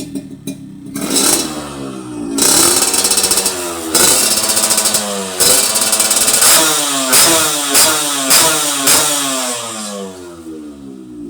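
Yamaha RX-King two-stroke single-cylinder engine revved in a series of throttle blips, its pitch rising and falling with each rev, including one longer rev a few seconds in, then quicker blips that ease back toward idle near the end. The engine has just been rebored and is being tried out on its carburettor setting.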